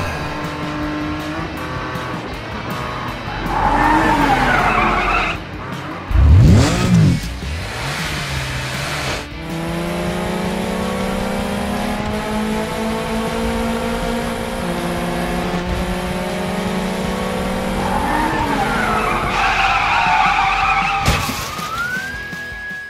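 Cartoon car sound effects over background music: tires squeal about four seconds in and again near the end, with a loud engine zoom about six seconds in.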